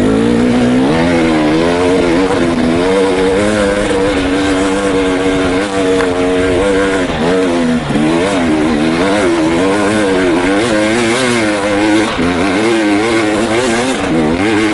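KTM 300 XC two-stroke single-cylinder dirt bike engine revving hard under throttle while climbing a rough hill. Its pitch rises and dips about once a second as the throttle is worked.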